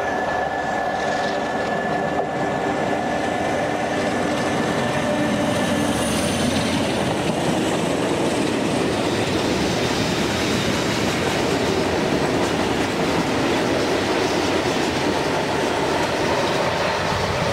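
Freight train running past at speed, its wagons rolling and clattering steadily over the track. A steady whining tone in the first several seconds gives way to the wagons' rolling noise.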